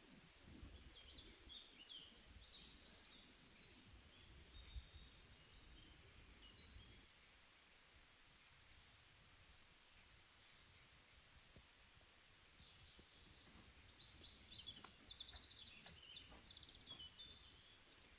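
Faint chirps and twitters of small birds, with a fast trill about three-quarters of the way through, over a quiet low background rumble.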